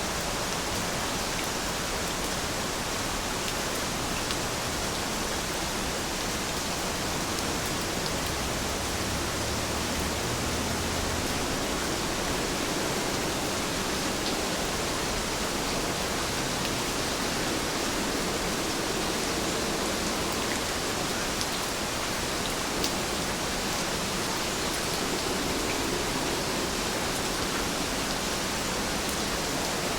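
Steady, dense rainfall making an even hiss, with faint scattered drop ticks.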